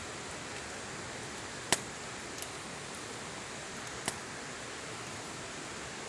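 Wood campfire burning: two sharp pops a couple of seconds apart, with a fainter one between them, over a steady hiss.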